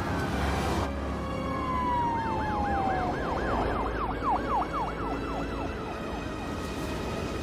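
A siren sounding: one long falling tone, then a fast up-and-down yelp about three times a second that dies away shortly before the end, over a steady low rumble.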